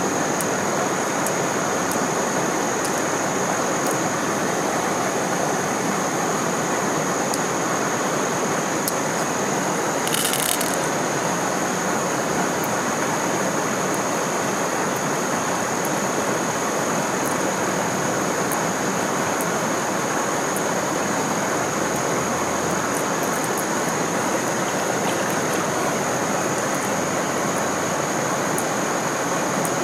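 Steady rushing of stream water below a waterfall, with a thin, steady high-pitched tone throughout and a brief hiss about ten seconds in.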